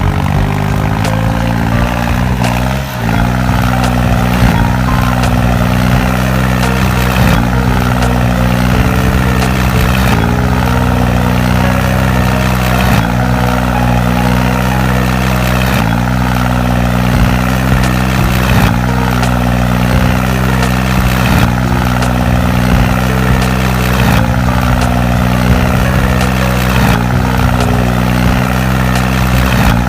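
Model tractor running with a steady engine-like hum. The pitch dips briefly about every three seconds, with a short drop in level about three seconds in.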